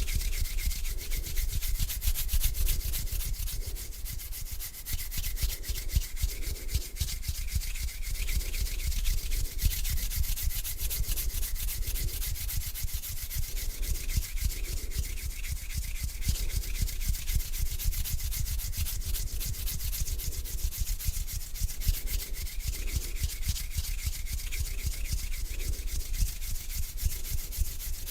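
Hands rubbing slowly together close to the microphone, a dry skin-on-skin friction hiss that swells with each back-and-forth stroke, about one stroke a second.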